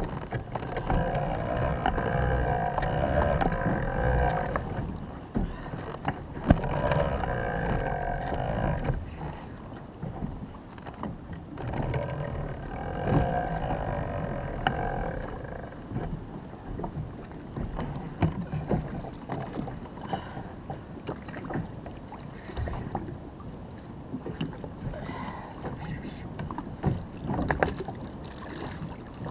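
A fishing reel buzzing steadily in three spells of a few seconds each while a large jack crevalle is fought from a kayak, over a low rumble of water and wind with scattered knocks against the kayak.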